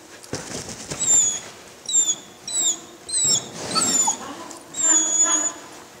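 Dog whining in a run of about six short, high-pitched squeals, with two spells of rustling noise.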